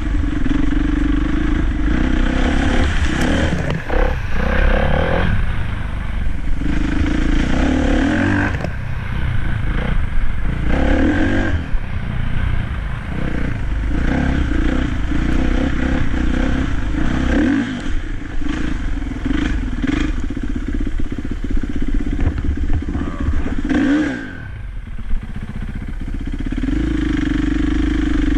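Dirt bike engine running as the bike is ridden, revving up and easing off again and again; about three-quarters of the way through it drops off briefly before picking up again.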